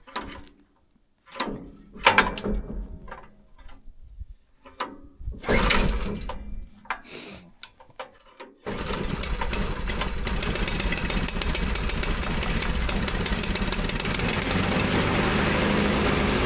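New small gasoline engine on a sawmill being pull-started by its recoil starter. Several short pulls and clatters come before it catches about nine seconds in, then it runs steadily at speed with the belt drive half engaged.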